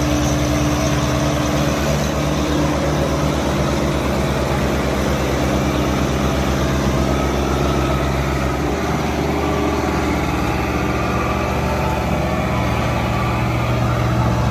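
Tractor diesel engine running steadily at a low, even speed; its note shifts slightly about nine seconds in.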